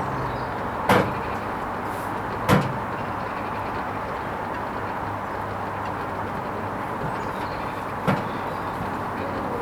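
Hoover Vision HVP16 washing machine running its Silks 30 programme: a steady hum and whirr with three short knocks, about a second in, again a second and a half later, and once more near the end.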